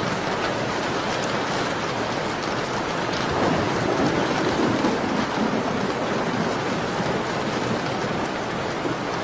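Steady rain pattering on a window pane, swelling briefly in the middle, with a few faint crackles from a fireplace.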